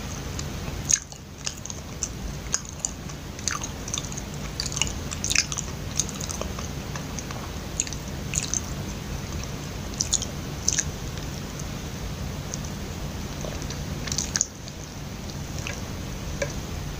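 Close-up mouth sounds of a person biting and chewing loh mai chee, a soft glutinous-rice mochi with ground nuts and sugar. Scattered clicks and smacks come thickest in the first ten seconds, with a few more near the end, over a steady low hum.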